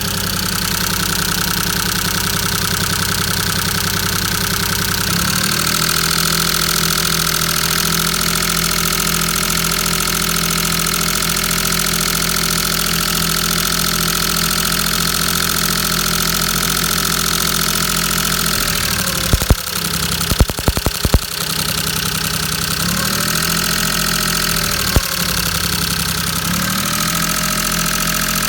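Maruti 800's small three-cylinder petrol engine idling steadily, its note shifting slightly about five seconds in. A quick series of sharp knocks or clicks comes around two-thirds of the way through, and one more a few seconds later.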